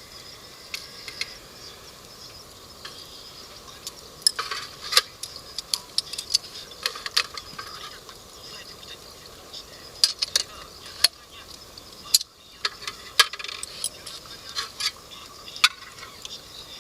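Cooking utensils clinking and tapping against cookware: irregular sharp clinks, in clusters of several at a time.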